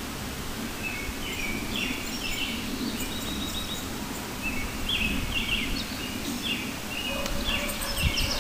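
A songbird calling over outdoor background noise: a quick series of short chirps, each dropping slightly in pitch, repeating every half second or so and getting busier partway through. A few low bumps sound near the end.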